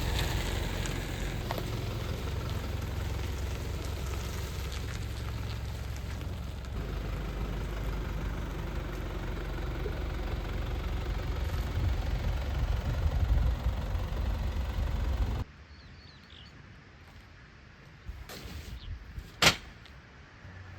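Car on the move: a steady low engine and road rumble with wind and road noise, which cuts off suddenly about three-quarters of the way through. After it comes a quiet stretch with a few small clicks and one sharp click near the end.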